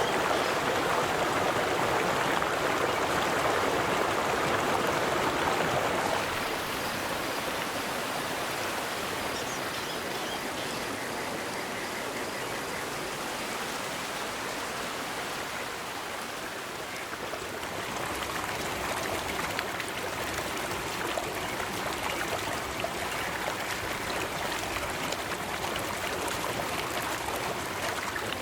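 River water flowing and babbling steadily, louder for the first several seconds, then easing a little before picking up again.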